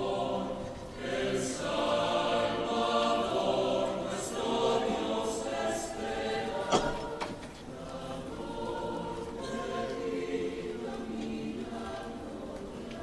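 Mixed choir singing a cappella, holding and shifting sustained chords. A single sharp click sounds about seven seconds in.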